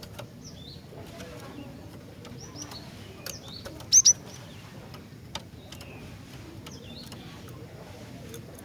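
Female cinereous tit (glatik batu) calling: scattered faint high chirps, with a loud pair of sharp, high down-slurred notes about four seconds in.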